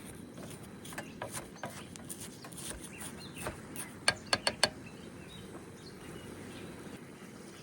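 A few soft clicks, then four sharp taps in quick succession about four seconds in, over a low steady background rumble.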